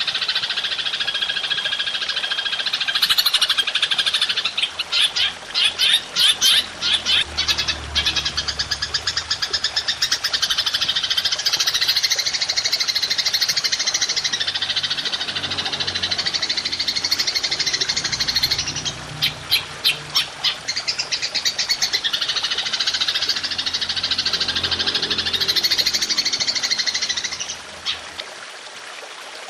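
Masteran training track of high-pitched animal calls: continuous rapid buzzing trills with bursts of fast, clicky chattering runs, dropping away near the end.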